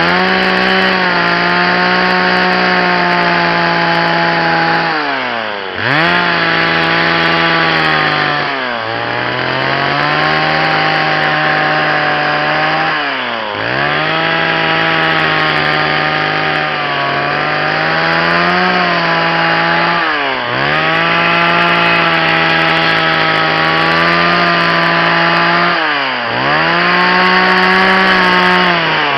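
Two-stroke chainsaw running at high revs while carving into maple wood. Its pitch dips sharply and comes back up about five times as the throttle eases and the chain works the cut.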